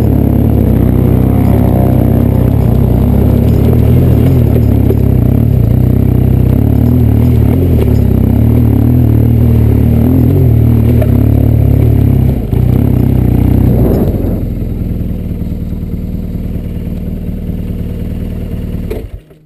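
BMW R1200 GS boxer-twin motorcycle engine running under way on a rocky dirt trail, heard from the bike itself. The engine note eases to a lower, quieter level about fourteen seconds in, then stops abruptly near the end.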